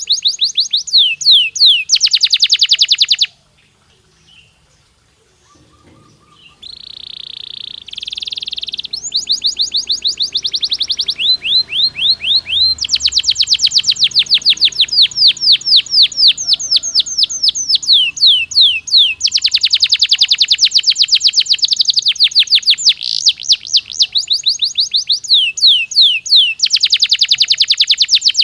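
Canary singing: fast rolling trills of rapidly repeated rising notes, broken by a pause of a few seconds early on, followed by a short buzzy phrase and then long unbroken runs of trills.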